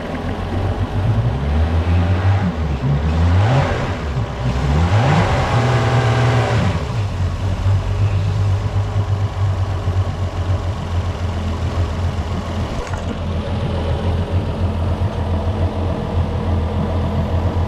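Yamaha 300 outboard engine revving up and down about a second in and again around five seconds in, then running at a steady speed.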